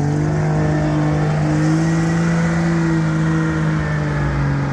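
Homemade competition tractor's engine held at high revs, its pitch steady after climbing, then easing off a little near the end.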